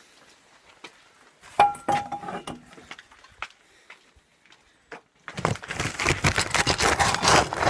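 A dog bowl clanks once with a short ring about a second and a half in, then from about five seconds in dry dog food pours into a bowl with a dense, continuous rattle.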